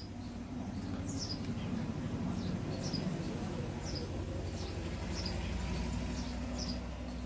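Small bird chirping repeatedly in the background, short high chirps about every half second to second.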